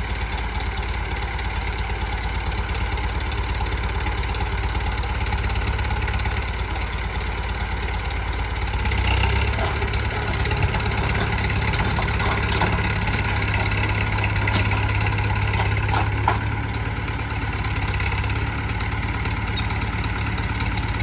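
Massey Ferguson 165 tractor engine running steadily, swelling a little about nine seconds in, with a brief sharp knock about sixteen seconds in.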